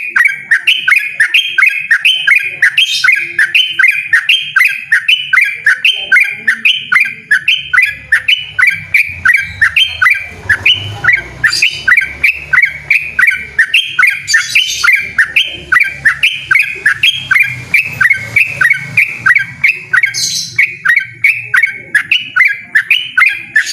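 Yellow-vented bulbul (trucukan) singing loudly in a long unbroken 'ropel' run: short falling notes repeated about three a second without a pause, the insistent rolling song that Indonesian bird keepers prize.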